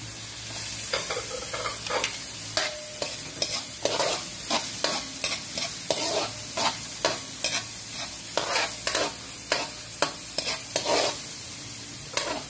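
Chopped garlic and onion sizzling in hot oil in an aluminium wok, with a metal spoon scraping and clinking against the pan in irregular strokes as it is stirred.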